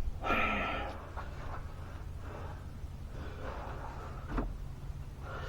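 A man's heavy exhale about a second in, then fainter breathing and a single light click near the end, over a steady low hum from a fan.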